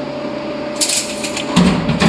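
Handling sounds from metal fabrication work: a short, sharp clatter about a second in and a heavier clunk near the end, over a steady machine hum.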